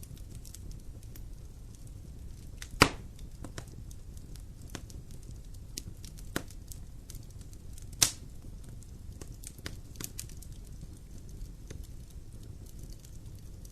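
Fire burning in a fireplace: a low, steady rumble of flame with scattered small crackles, and two loud sharp pops, one about three seconds in and another about eight seconds in.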